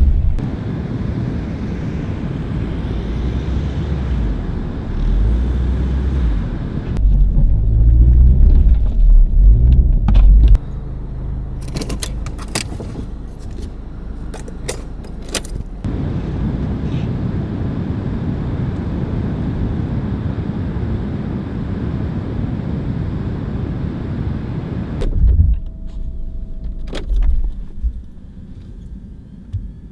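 A car running with a heavy, uneven low rumble, then a few seconds of jangling clicks like keys around the middle, and two thumps near the end before it goes quieter.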